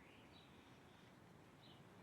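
Faint birdsong: a few short chirping calls, one near the start and another just before the end, over a low steady background hum.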